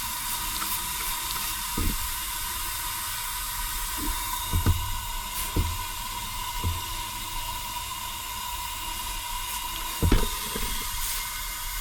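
Steady hiss of pressurised air escaping from leaking welds on a home-welded exhaust downpipe during a pressure test, with a steady high tone under it and a few light knocks.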